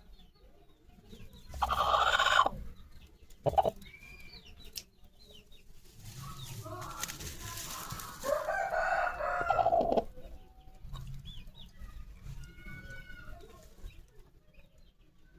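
Aseel rooster crowing: one long crow that ends sharply about ten seconds in, after two short loud calls earlier, with softer clucking afterwards.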